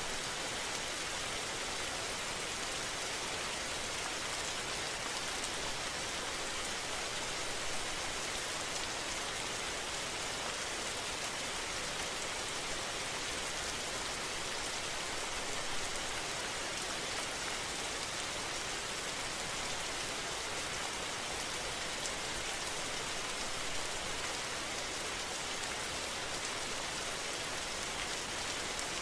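Steady rain falling, an even hiss with no breaks or distinct events.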